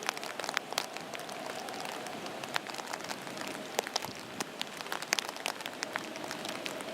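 Heavy rain falling steadily, with many sharp, irregular clicks of drops hitting a hard surface close by.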